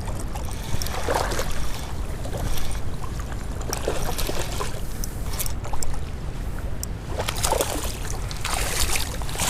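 Moving river water and a low wind rumble on the microphone, with a few short splashes as a hooked fish is fought close in.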